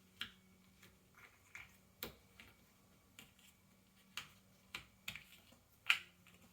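Cardboard jigsaw puzzle pieces clicking and tapping faintly as they are handled and pressed into place, about a dozen irregular taps with the sharpest one near the end.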